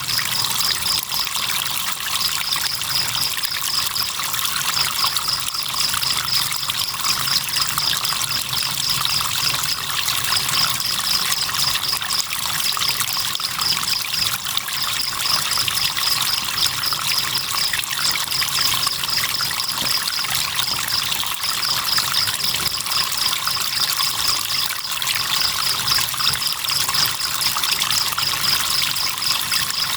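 A cricket chirping in long runs of rapid high pulses with short breaks, over a steady trickle of river water.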